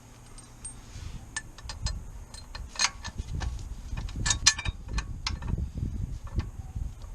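Scattered sharp metallic clinks and clicks, like tools and small metal parts being handled and set down, with the loudest cluster about four and a half seconds in.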